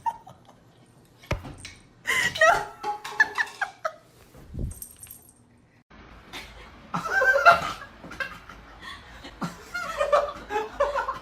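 People laughing and chuckling in several bouts.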